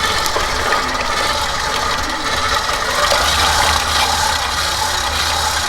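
Electric mixer running steadily, beating the cream cheese base for a maple cream cheese frosting.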